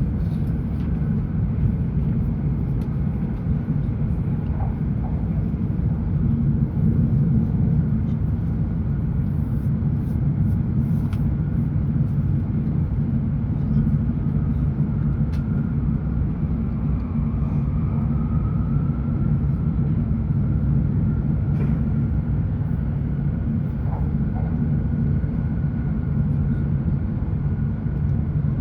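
Steady running noise of a Hokuriku Shinkansen (E7/W7-series) train, heard inside the cabin at speed: an even low rumble with a faint whine above it that rises slightly about halfway through.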